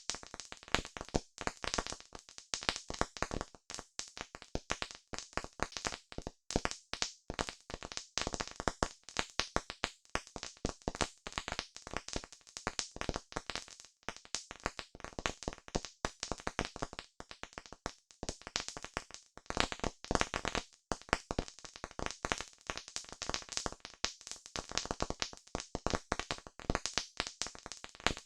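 Wood fire crackling and popping: a dense, irregular run of sharp pops and snaps.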